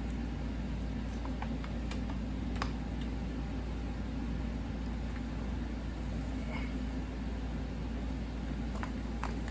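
Steady low machine hum, with a few faint clicks and taps of small parts being handled.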